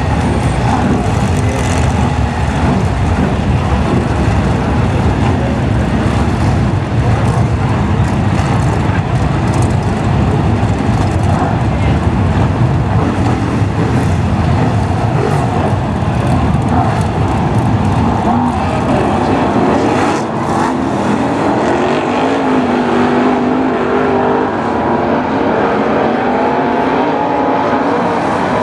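A pack of BriscaF1 stock cars' V8 engines racing round the oval, loud and continuous. About two-thirds of the way in the deep engine sound thins and wavering engine notes come to the fore.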